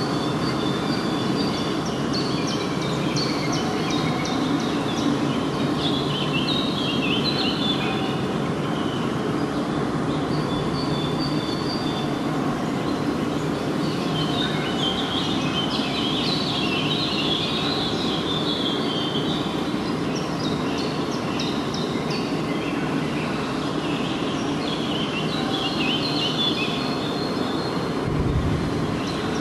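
Songbirds singing in short repeated phrases, in clusters throughout, over a steady low rushing noise.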